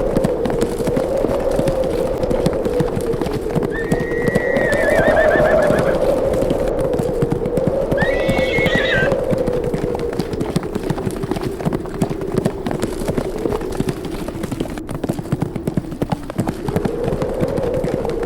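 Howling wind, its pitch slowly wavering, over the dense drumming of galloping horses' hooves. A horse whinnies twice, about four seconds in and again about eight seconds in.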